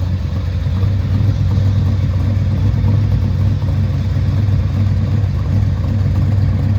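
Classic Nissan Laurel's engine running with a steady low hum, picking up a little about a second in and then holding even.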